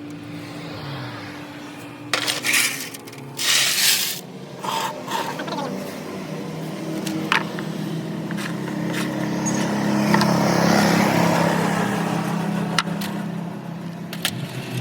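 Metal scraping and clicking, with two short hissing bursts a couple of seconds in and a steady mechanical hum that swells toward the middle.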